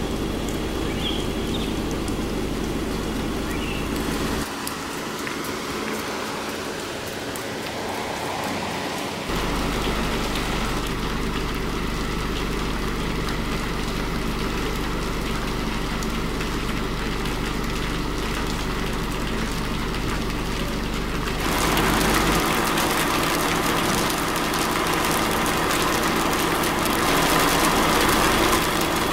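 Steady hiss of light drizzle outdoors over a low steady hum, the mix changing abruptly several times as the recording cuts between takes; it gets louder and brighter about three quarters of the way in.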